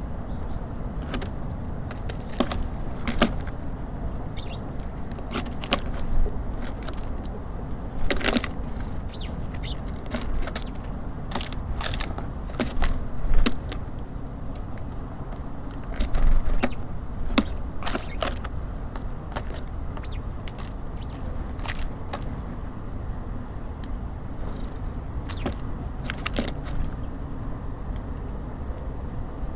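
Steady low rumble of city traffic, with irregular sharp taps and knocks of small birds pecking and landing at a bird feeder; a few louder knocks come around the middle.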